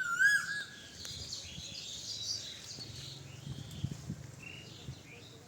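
Birds calling: a loud, curved whistled call right at the start, then softer high chirps and trills that thin out after about four seconds.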